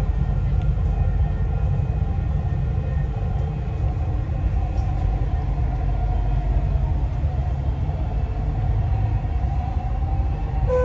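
Metro train running between stations, heard from inside the carriage: a steady low rumble with a faint steady whine above it.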